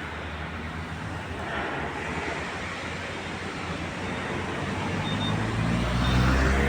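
Truck driving on the road: a steady low engine drone with road noise, growing louder near the end.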